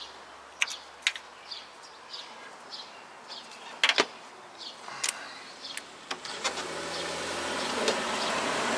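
Sharp metallic clicks and clinks of bolts, washers and tools being handled while fitting a starter motor. About six and a half seconds in, a steady mechanical hum starts and slowly grows louder.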